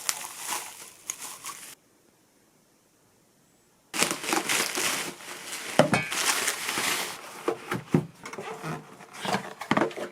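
Packaging crinkling and tearing in two bursts, a short one at the start and a longer one from about four seconds in, each cutting off suddenly.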